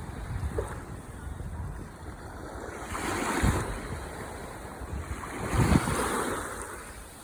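Ocean waves washing onto the shore, with two surges breaking about three and five and a half seconds in, the second the louder.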